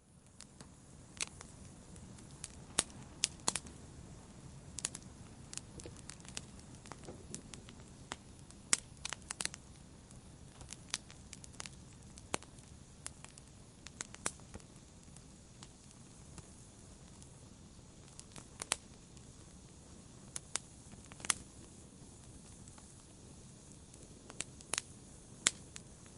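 Fire burning in a fireplace: irregular sharp pops and snaps, a few to several per second in clusters, over a steady low rustle of the flames.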